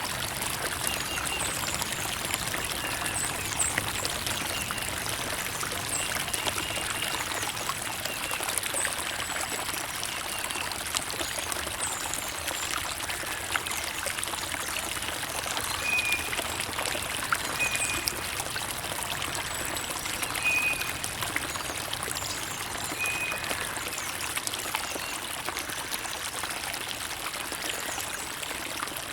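Creek water trickling and running steadily, dense with small splashy ticks.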